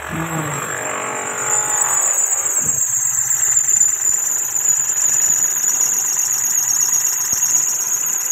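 Mahindra Bolero Power Plus three-cylinder diesel engine idling just after starting, now running with its fuel pump working again. A steady high-pitched whine sits over the engine noise and grows louder about a second and a half in.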